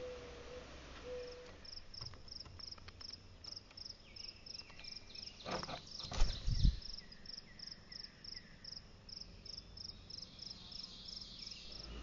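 A high, thin chirp repeating evenly about four times a second, with a few short falling chirps in the middle. Two sharp knocks come close together about halfway through.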